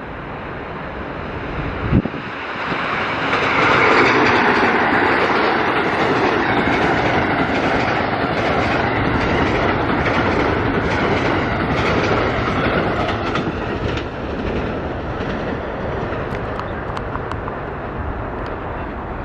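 Amtrak Northeast Regional passenger train passing: a rush of wheel and rail noise builds over the first few seconds, holds, then slowly eases off. A single sharp thump comes about two seconds in, and wheel clicks over the rail joints are heard near the end.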